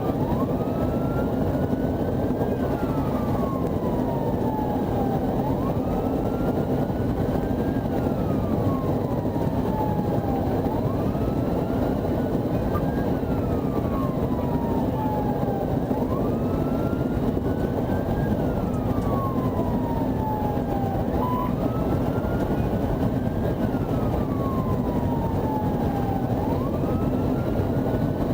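Patrol car siren on a slow wail, rising and falling about every five seconds, over steady engine and road noise.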